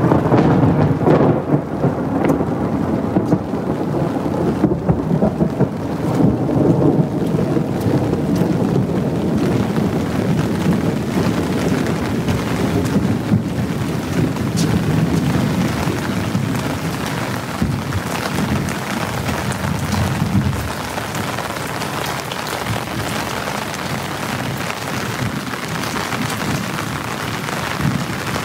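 Heavy monsoon rain pouring steadily, with a dense low rumble under it that eases about two-thirds of the way through.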